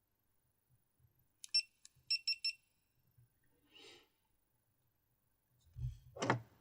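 Short high electronic beeps from a GoPro Hero 4 Silver action camera: one beep, then three quick ones about half a second later. A soft rustle follows, then a low thump near the end.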